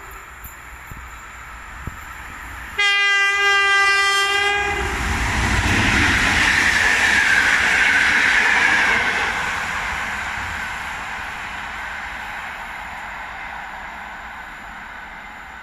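EP07 electric locomotive sounding its horn in one blast of about two seconds, about three seconds in. The locomotive and its passenger coaches then pass close by with loud wheel and rail noise, loudest around the middle, fading as the train moves away.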